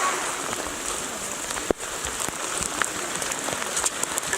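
Rain falling steadily, with many small scattered drops pattering.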